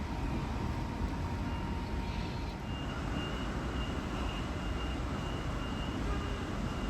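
Electric train running at the platform with a steady low rumble. A faint steady whine stops about two and a half seconds in, and a faint high beeping follows.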